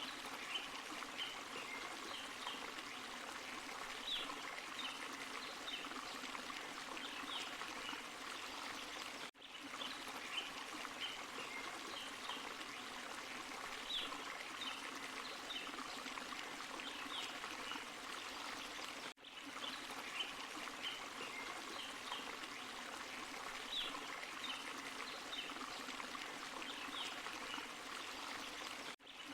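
Small forest waterfall and stream, water running and splashing over rocks in a steady rush. It breaks off briefly about every ten seconds, where a short recording loops.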